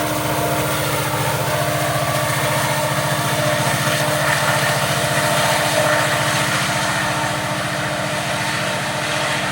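Loaded coal train going by, with a diesel locomotive's engine running steadily. The engine's drone carries a few steady tones and a fast, even pulse low down.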